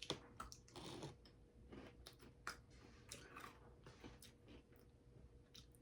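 Faint, irregular crunching and chewing of frosted animal cookies topped with Nerds candy being bitten into and eaten.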